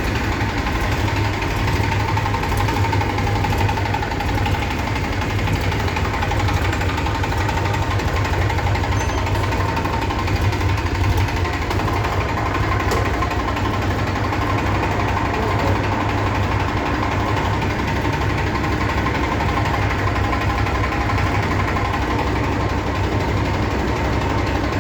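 Tractor engine running steadily at idle, just got going again after standing unused for three years.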